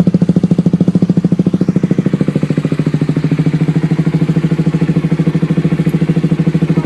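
Honda CBR150R single-cylinder motorcycle engine idling through an aftermarket SC-Project exhaust, a loud, steady, evenly pulsing beat. It cuts off suddenly at the very end.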